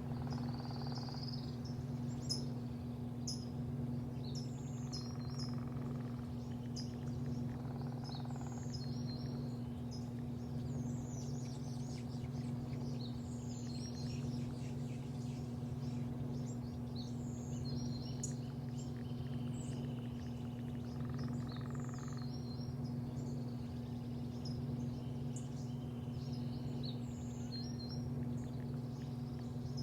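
Birds chirping repeatedly in short high calls over a steady low mechanical hum with one held tone.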